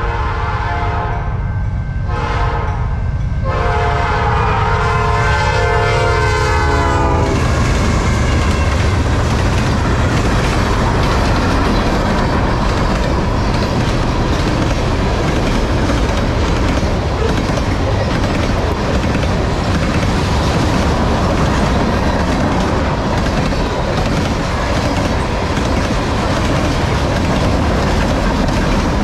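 A diesel locomotive's air horn blows with a brief break about two seconds in and stops about seven seconds in. After that comes the steady, loud noise of a train passing, its wheels clacking over the rail joints.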